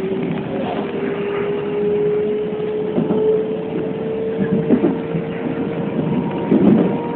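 Keikyu New 1000 series electric train running between stations, heard from the front of the train: a single motor whine climbs slowly in pitch as the train gathers speed, over loud wind and running noise, with a few short clicks from the track.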